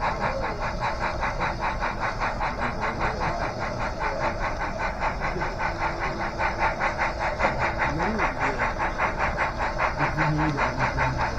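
Sound-equipped model of N&W 475 steam locomotive, chuffing fast and steadily at about seven beats a second as it runs along the layout. Faint voices from the crowd come through now and then.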